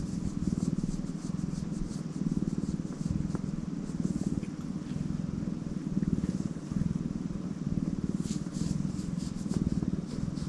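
Tortoiseshell cat purring close to the microphone: a steady low rumble that swells and eases about every two seconds.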